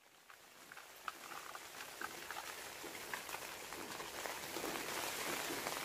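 Rain pattering: a steady hiss of rainfall with scattered individual drops ticking, fading in from silence and slowly growing louder.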